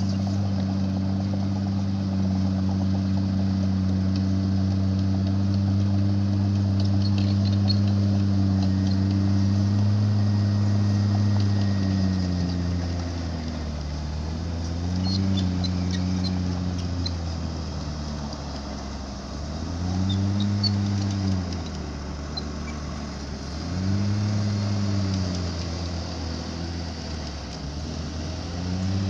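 Dump truck's diesel engine held at a steady high speed, then revved up and let fall back four times, about every four seconds, as the truck tips its load of fill soil.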